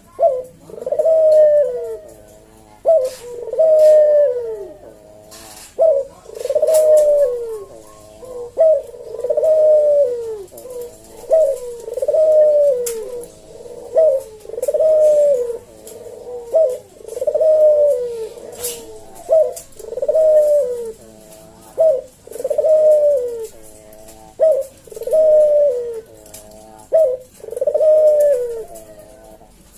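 Puter dove (Barbary or ringneck dove) giving its 'kuk-geruk' coo over and over in a slow, even rhythm. Each call is a short note followed by a longer, wavering, falling coo, repeated about every one and a half seconds.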